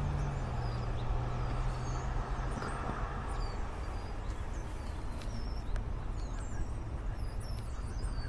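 Many small birds chirping over the steady low rumble of jet airliners taxiing at an airport.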